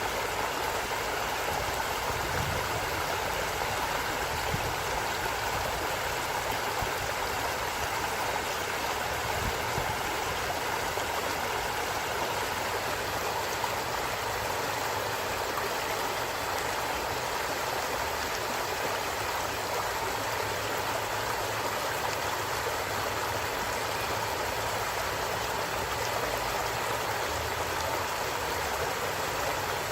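A stream running steadily, an even, unbroken rush of water.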